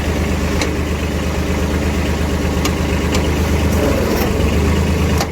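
Mini dumper's small engine running steadily in gear as the machine is eased forward to pull its tie-down chain tight, with a few light clicks and a brief change in the engine note about four seconds in.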